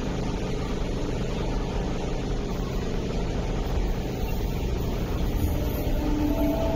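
MTR East Rail Line R-train electric multiple unit pulling into a station platform: a steady low rumble of wheels on rail and running gear as it comes in to stop.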